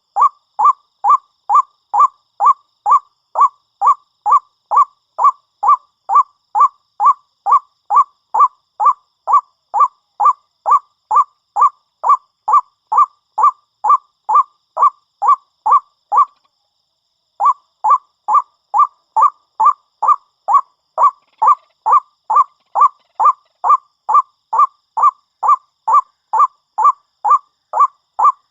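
White-breasted waterhen (ruak-ruak) calling, a short nasal note repeated very evenly about twice a second, with one break of about a second just past halfway.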